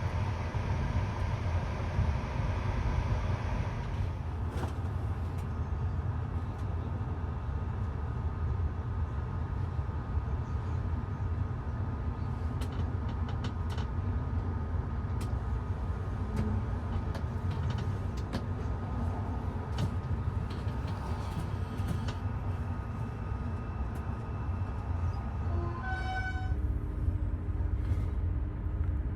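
Passenger train running: a steady low rumble with scattered sharp clicks. A steady pitched tone starts a few seconds before the end and holds.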